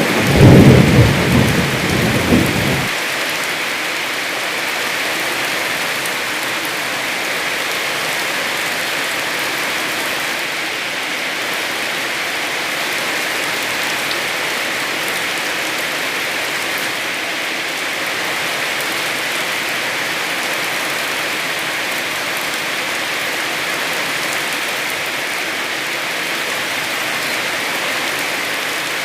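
Heavy rain falling steadily, with a loud low rumble of thunder that ends about three seconds in.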